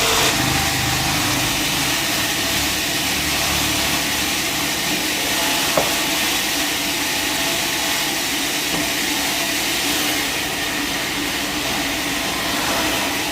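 Sawmill machinery running steadily, a loud hissing noise over a low hum, with a single click about six seconds in.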